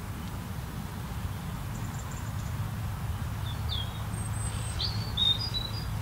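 A wild bird chirping in several short, high calls, most of them in the second half, over a steady low rumble.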